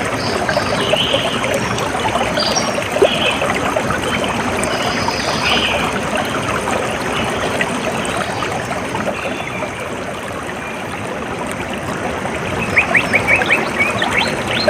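Stream water running and trickling steadily, with scattered high bird chirps; near the end a bird gives a quick run of sharp, high notes.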